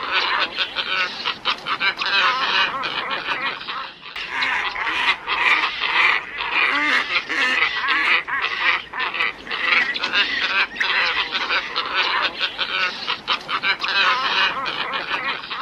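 A flock of glossy ibises calling without pause: many harsh, goose-like calls overlapping, with a brief lull about four seconds in. It is a recording played as a lure call to draw the birds in.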